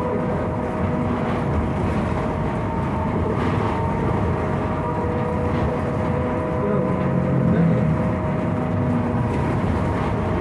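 Inside a Scania trolleybus on the move: a steady whine from the electric drive, several held tones, over a constant low rumble and rattle of the body and road. It is a loud, unbroken racket.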